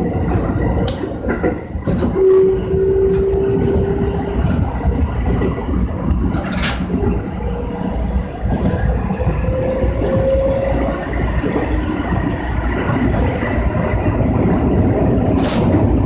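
Keikyu 1000 series electric train running, heard from inside the leading car: a steady rumble of wheels on rail with a few sharp clacks, the loudest about six and a half seconds in and near the end. Thin high whining tones slowly rise in pitch.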